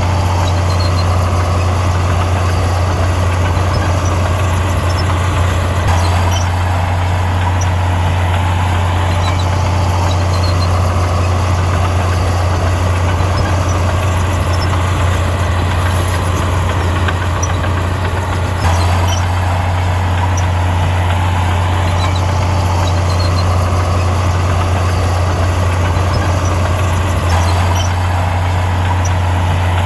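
Heavy diesel engine of earthmoving machinery running steadily, with a strong, constant low hum and no clear revving. The sound shifts slightly in character a few times.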